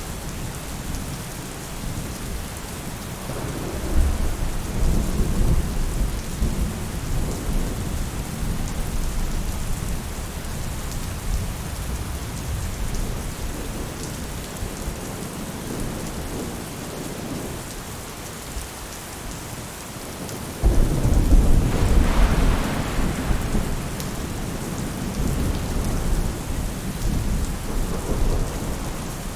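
Steady rain falling on a roof, with thunder rumbling about four seconds in and a louder thunderclap starting suddenly near the end that rolls on for several seconds.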